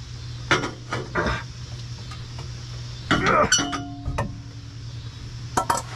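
Steel exhaust pipe clanking as the cut-off section is knocked loose and handled: several sharp metallic knocks that ring briefly, the loudest cluster about halfway through, over a steady low hum.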